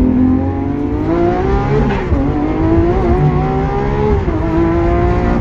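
Lamborghini Aventador SVJ's V12 with a Balboni exhaust pulling hard under acceleration. The engine note climbs, drops at a gear change about two seconds in, climbs again, then dips briefly and holds steady near the end.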